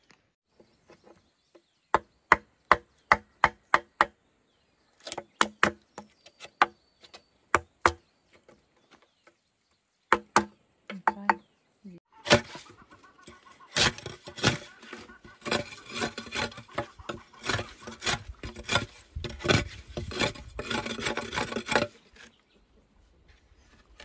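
A blade chopping wood in quick runs of sharp blows, about three or four a second, with short pauses between runs. About halfway through, the blows come faster and denser over a steady hiss.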